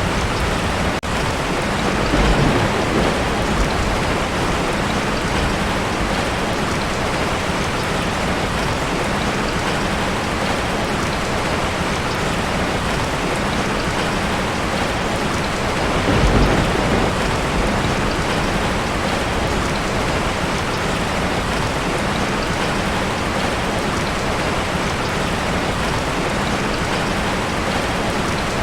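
Heavy rain drumming steadily on a tin roof. Low rolls of thunder swell up twice, about two seconds in and again about halfway through.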